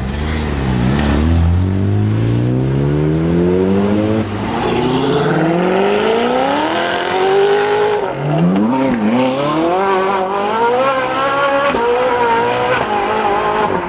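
A high-performance car's engine accelerating hard as it pulls away. Its pitch climbs steeply, drops back and climbs again several times as it shifts up through the gears.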